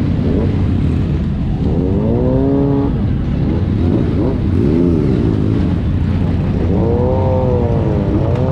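Motorcycle engines revving over a steady low rumble, the pitch rising and falling three times.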